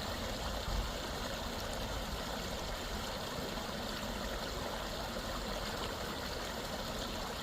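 A shallow stream running steadily over its bed, a continuous rushing and trickling of water.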